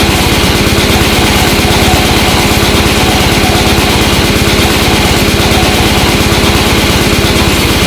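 Harsh noise music: a loud, unbroken wall of distorted static with a fast, rattling pulse in the bass that does not change.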